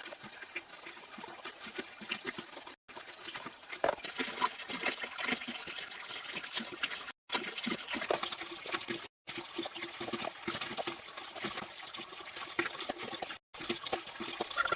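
Water splashing and trickling with many small clicks and drips, in several short stretches split by brief breaks of silence.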